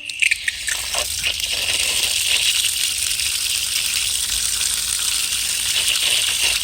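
Water gushing steadily from an outside faucet spigot with its bibb vacuum breaker removed, with a few clicks in the first second. There is no hum: the removed vacuum breaker was the cause of the humming.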